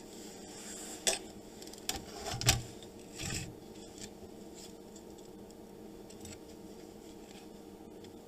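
Small handling noises as a cable connector is fitted onto an inverter control board: a few sharp clicks and short rubbing, scraping sounds in the first three seconds, then only faint steady room noise.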